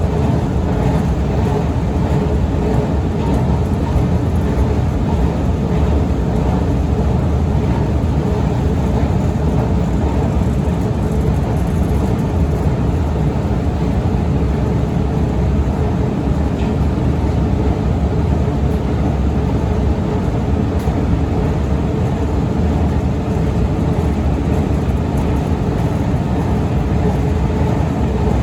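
Long Otis escalator running steadily: a continuous low rumble and hum from the moving steps and drive, with a faint steady whine, unchanging throughout.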